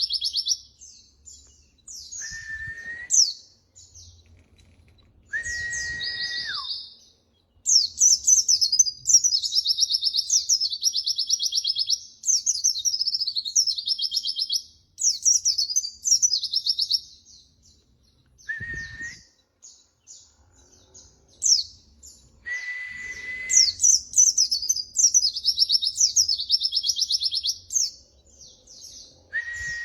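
Pleci (white-eye) singing: long runs of rapid, high twittering song in bursts, broken by short pauses, with an occasional lower steady whistle held for about a second, a few of them dropping in pitch at the end.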